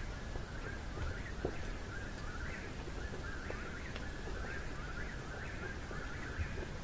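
Birds calling: short chirping notes repeating about twice a second over a low steady background hum.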